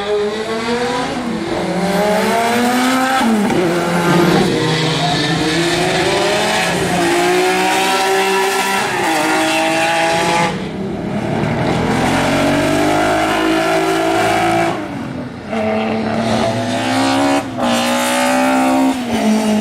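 Classic car engine accelerating hard, its pitch climbing through each gear and dropping at every shift. The throttle is briefly closed about halfway through and twice more near the end.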